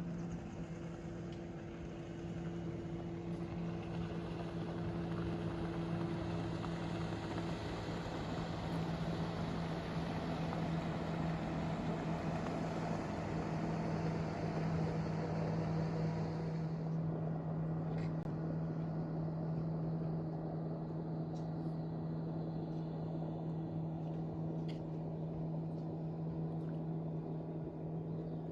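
An engine running steadily with a constant low hum, under a hiss that drops away about seventeen seconds in.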